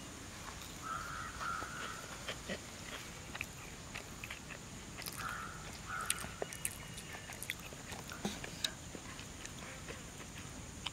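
A bird calling in short pairs, about a second in and again around five to six seconds in, over soft crunching clicks of someone chewing crisp fried fish.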